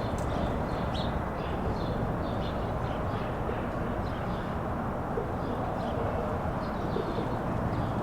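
Many small birds chirping in short, scattered calls over a steady low rumble of background noise.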